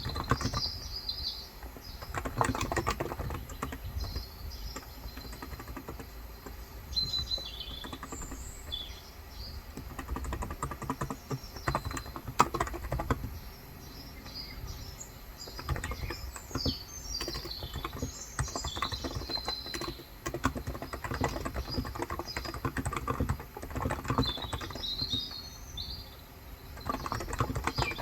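Typing on a Cox Endeavor electrostatic-capacitive (topre-style) keyboard with light 35 g switches, keys clacking in runs with short pauses. Small birds chirp outside throughout.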